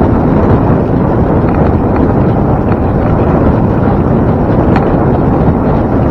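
Wind buffeting the microphone of a camera on a moving bike: a loud, steady low rush with a few faint ticks.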